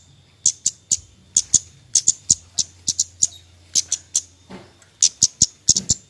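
A Kemade songbird giving short, sharp, high chirps, the 'nyecret' call used as a lure to get lazy birds singing, singly and in quick runs of two or three, a few times a second, over a faint low hum.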